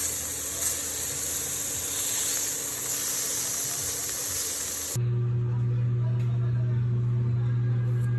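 Coffee machine hissing steadily, then switching about five seconds in to a steady low pump hum.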